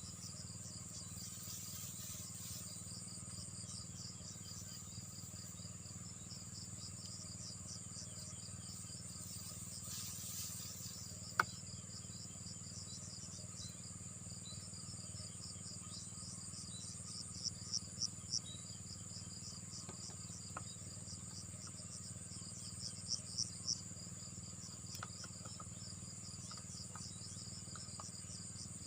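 Insects chirping and trilling steadily in a rapid, high repeating pattern over a constant high tone. A single sharp click comes about eleven seconds in, and two runs of four quick clicks come later.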